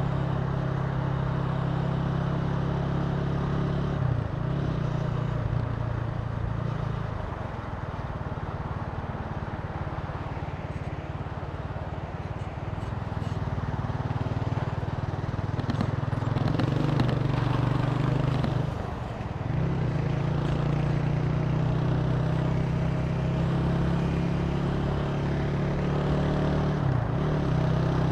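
Italika TC300 motorcycle engine running while riding, a steady engine note that dips briefly about four seconds in and again near nineteen seconds, and runs quieter for a stretch in the middle.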